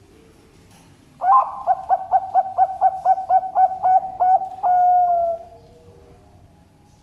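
Zebra dove (perkutut) singing its cooing song: a quick run of about a dozen short notes, about four a second, ending in one long, slightly falling note.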